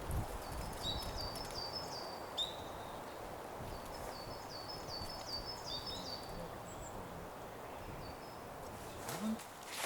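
Forest ambience with a small songbird singing twice: each phrase is a quick run of repeated high, slurred notes lasting a second or two.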